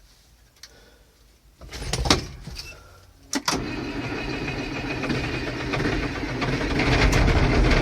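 A tractor engine is turned over by its starter for about two seconds, catches about three and a half seconds in, and settles into a steady run that grows louder near the end.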